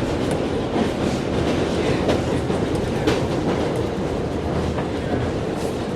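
New York City subway train running at speed, heard from on board: a steady rumble with irregular sharp clacks of the wheels over rail joints.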